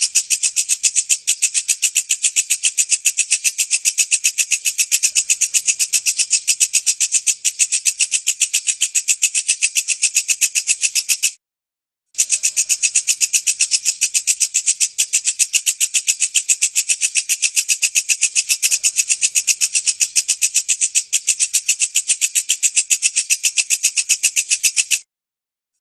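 Walang kecek bush cricket (katydid) stridulating: a loud, fast, evenly pulsed high buzzing chirp. It cuts out briefly twice, about eleven seconds in and again near the end.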